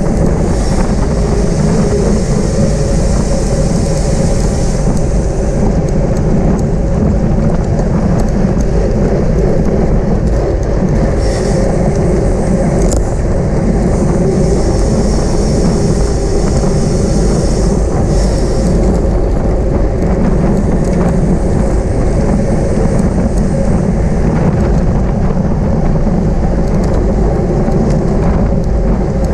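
Steady wind rumble on the microphone with tyre and road noise from a bicycle ridden at racing speed.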